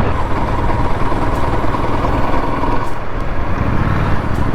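Honda CRF 250L single-cylinder motorcycle running steadily while being ridden, its engine mixed with dense road and wind noise.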